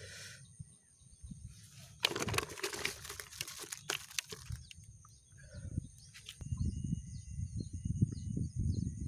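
Rural outdoor ambience with steady high insect tones and small repeated bird chirps. About two seconds in comes a couple of seconds of noisy rustling, and in the last few seconds a rough low rumble.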